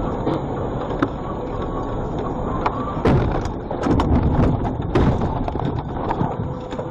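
Car driving with steady road and engine rumble from inside the cabin, then a rapid series of loud bangs and thuds about three seconds in, lasting around two seconds: the sound of a collision.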